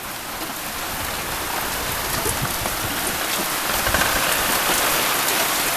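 Steady rain falling and pattering on the ground and surrounding objects, a dense hiss sprinkled with the taps of individual drops, growing gradually louder over the first few seconds.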